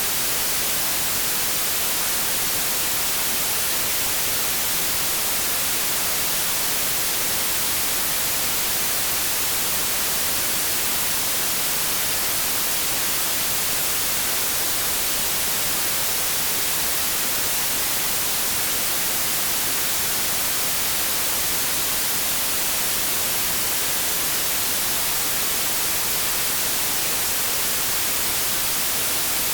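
Steady, unchanging white noise: an even hiss across the whole range, brightest in the highs, with no variation.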